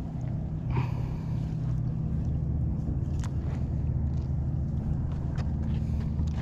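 An engine running steadily at low speed, a low even hum, with a couple of light knocks about a second and three seconds in.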